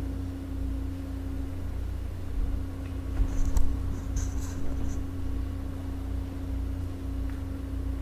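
Background room tone with a steady low rumble and a constant electrical hum, a few faint knocks, and a brief high squeak about three to five seconds in.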